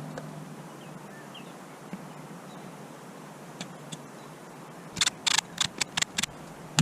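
Quiet workshop background, then about five seconds in a quick run of some seven sharp clicks or knocks, the last one loudest.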